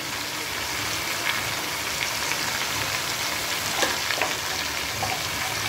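Chicken feet frying in oil with tomatoes and green chillies in a pan: a steady sizzle, with a few light clicks.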